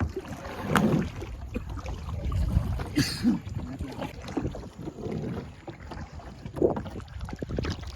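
Kayak paddling on open water: irregular paddle splashes and knocks against the hull, with wind rumbling on the microphone.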